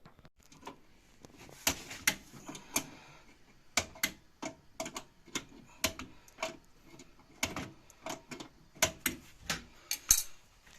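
An irregular series of sharp clicks and light knocks, about twenty of them, unevenly spaced, with the loudest near the end.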